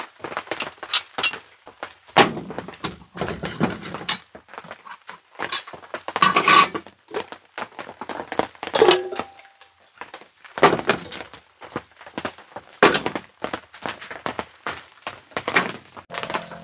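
Camp cooking gear being handled: a steady run of sharp knocks, clicks and clatter as a camp stove and its pot are set up and hooked up.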